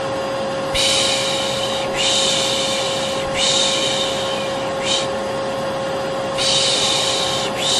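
Vacuum cleaner running with a steady hum, overlaid by a rhythmic 'shh' shushing repeated about every second and a half, used as a soothing sound for babies.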